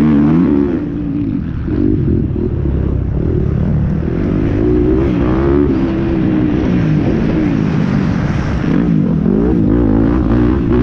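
Motocross bike engines revving up and down over and over, their pitch rising and falling through the gears as they ride the track.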